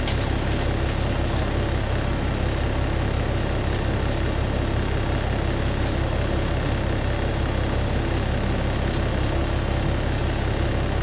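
A single-car diesel railcar's engine idling steadily while the car stands waiting to depart, heard from inside the cabin as an even low rumble with a few faint ticks.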